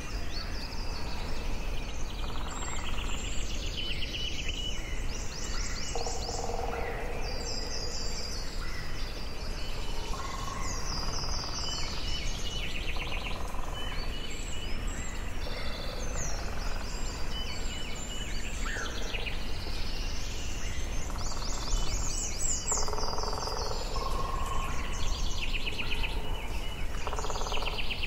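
Forest ambience: several birds singing and calling in overlapping phrases of quick chirps and trills, over a steady low background noise.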